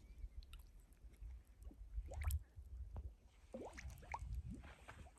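Mud volcano bubbling: gas bubbles bursting through wet clay mud as a scattered string of short wet plops, each rising quickly in pitch, over a low rumble.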